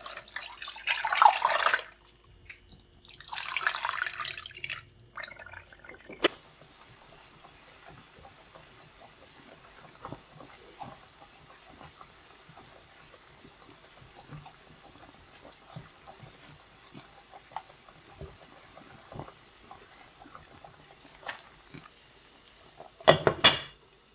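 Kitchen tap water running into a sink in two bursts of a couple of seconds each, then small faint clinks and drips, and a short final gush of water near the end.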